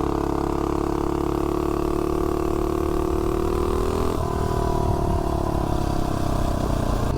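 Tillotson 225 single-cylinder four-stroke engine on a Mega Moto 80/105 mini bike, fitted with a Volts 330 cam, running at full throttle during a 0 to 30 mph launch. The pitch climbs slowly, drops suddenly about four seconds in and then eases lower.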